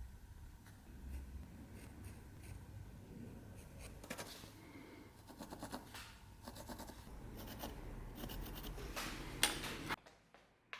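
Light scratching and scraping by hand on a workpiece, with scattered small clicks, denser in the second half; it cuts off suddenly near the end.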